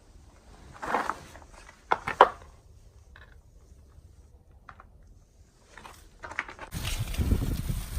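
Handling noise from a phone held in the hand: a rustle, then a few sharp clacks about two seconds in and scattered small ticks. Near the end, a steady rush of wind on the microphone cuts in suddenly.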